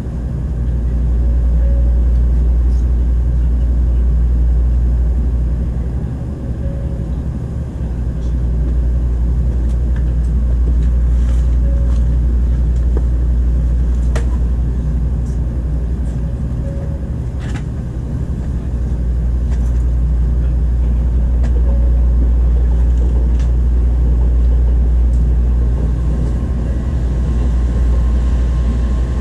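Steady low hum and rumble inside a Tokaido Shinkansen car standing at a platform, with a few faint clicks. Near the end a thin steady tone comes in as the train starts to pull out.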